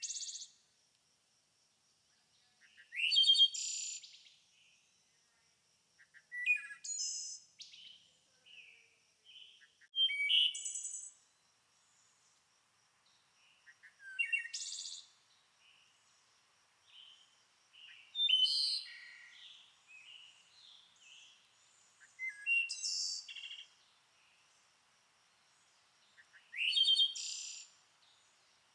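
A songbird singing the same short phrase over and over, about every four seconds: a quick rising note into a buzzy trill. Softer chirps fill the gaps between phrases.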